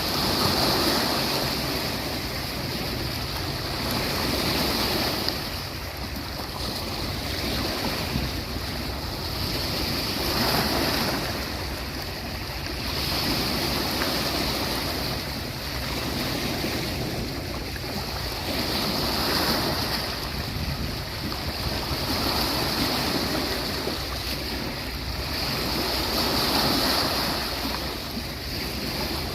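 Ocean waves breaking on the shore, the surf swelling and easing every few seconds in a continuous wash.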